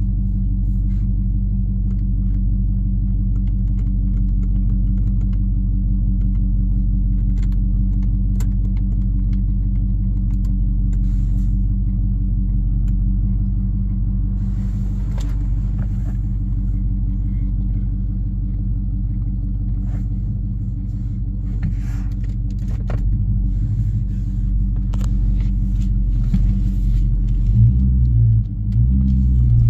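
Jeep Grand Cherokee's 5.7 Hemi V8 exhaust rumbling steadily at low revs. Near the end the engine note rises and shifts under throttle.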